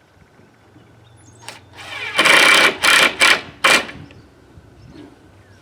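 Power drill driving a washer-head wood screw through a PVC roofing panel into the wooden frame: one run of about a second, then three short bursts as the screw is snugged down.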